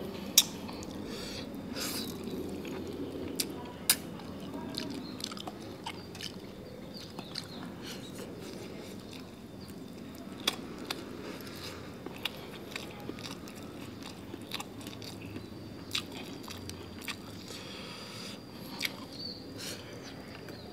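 Close-up chewing and crunching of cooked eel, with scattered sharp clicks and smacks of eating by hand.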